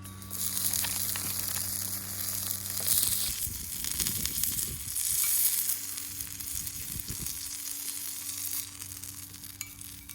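Food frying with a steady sizzle. A low hum underneath stops about a third of the way in.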